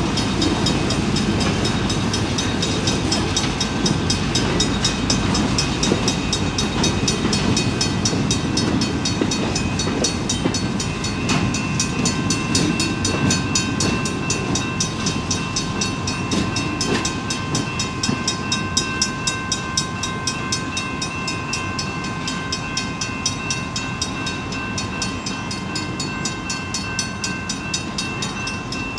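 Freight train moving in a rail yard: a steady low diesel-locomotive rumble with rolling cars. About a third of the way in, a steady high-pitched squeal starts and holds.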